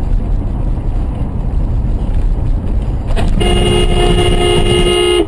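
Steady low road rumble of a moving car, then about three seconds in a car horn sounds, held steady for nearly two seconds before it cuts off.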